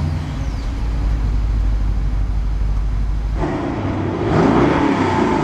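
BMW Alpina B7's twin-turbo V8 running with a steady low rumble, then, after an abrupt change a little over three seconds in, revving up and down through the exhaust.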